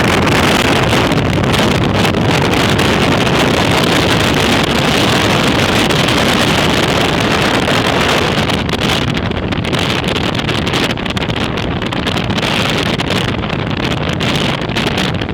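Bajaj Pulsar RS 200's single-cylinder engine and stock exhaust running, with heavy wind noise buffeting the microphone.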